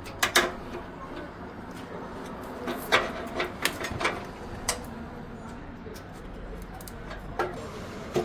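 Irregular short knocks and clicks of tools and engine parts being handled while the engine is being taken out, over a low steady workshop background.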